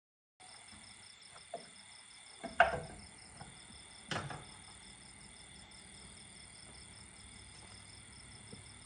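Crickets and other insects chirping steadily in a high, pulsing chorus. Two knocks cut through it, the louder one about two and a half seconds in and another at about four seconds.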